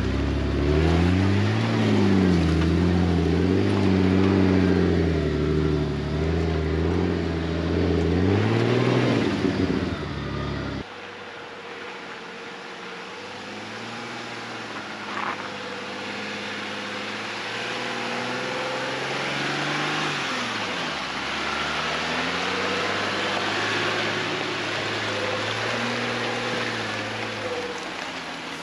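An off-road vehicle's engine revving up and down, rising and falling in pitch. About eleven seconds in it cuts off suddenly, and a fainter engine carries on, its pitch still rising and falling.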